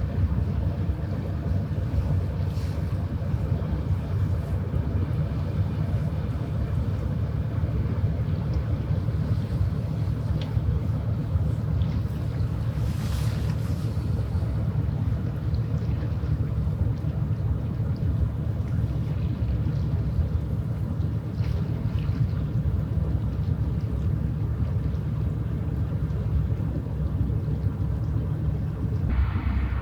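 Low, steady drone of a passing ship's engine, with a brief hiss about thirteen seconds in.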